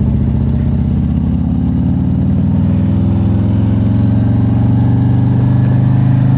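Harley-Davidson Road King Special's V-twin engine pulling away. Its pitch rises over the first couple of seconds, then holds a steady cruising note.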